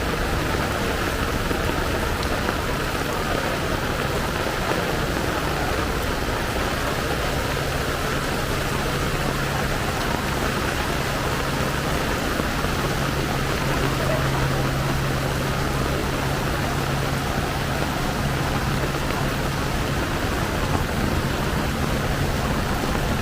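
Heavy rain falling steadily, with the low hum of vehicle engines running through it.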